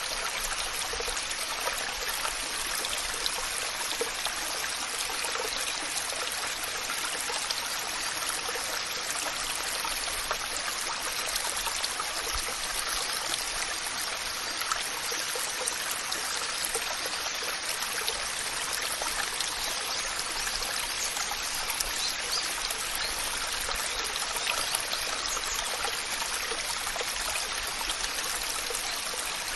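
Waterfall: a steady rush of falling water with fine splashing throughout. The sound is mostly a bright hiss with little deep rumble.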